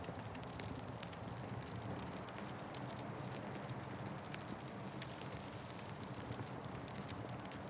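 Fireplace fire crackling: many small, irregular pops over a steady low rushing hiss.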